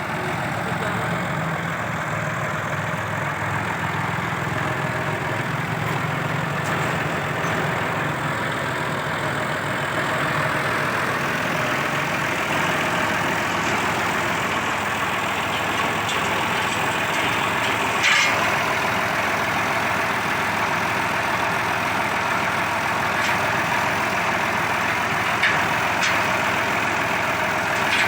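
Tractor engine running steadily at a constant speed, with a sharp click about two-thirds of the way through.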